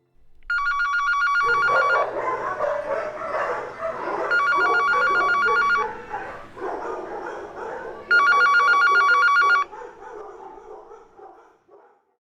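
A telephone ringing three times, each ring a fast warbling trill about a second and a half long, over dogs barking that fade out near the end.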